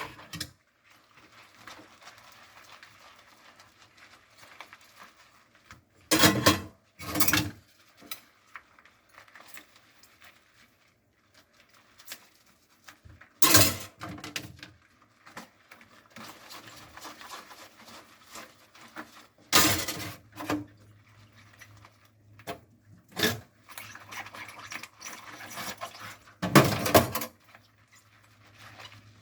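Dishes being washed by hand at a kitchen sink: several sharp clinks and knocks of dishes and utensils being handled and set down, with quieter scrubbing between them. A steady low hum joins in the second half.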